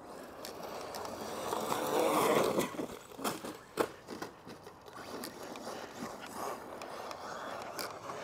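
Crunching and scraping on loose gravel and dirt, swelling about two seconds in, followed by a few sharp knocks a little after three seconds.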